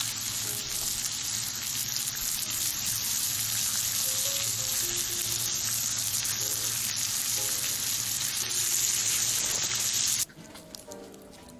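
Food sizzling on a hot griddle, a steady hiss that cuts off abruptly about ten seconds in.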